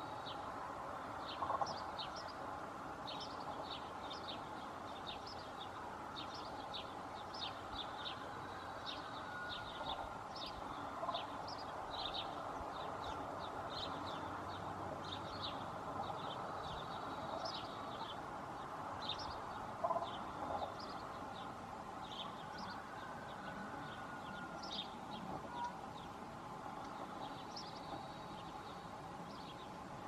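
Bird chirping outdoors: short, high chirps repeated about once or twice a second, over a steady background of distant sound, with a couple of louder calls.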